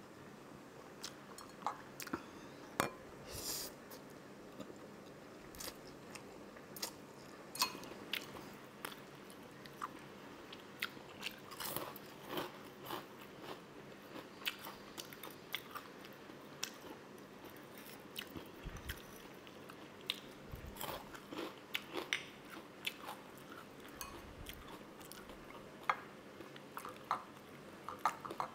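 Close-miked mukbang eating: chewing and biting on spicy instant noodles, rice and fried dried fish, with many irregular short crunches, smacks and clicks.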